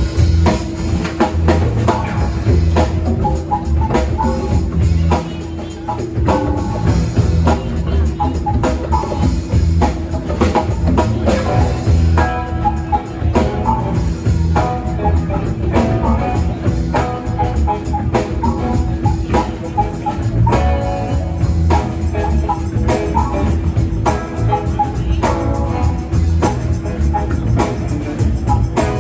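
Live band playing an instrumental passage, without singing: a drum kit keeps a steady beat under the other instruments.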